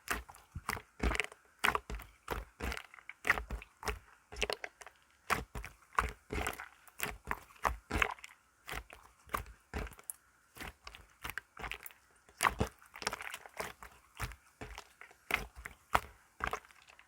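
Irregular, rapid crackles and clicks, several a second, from something being mixed by hand.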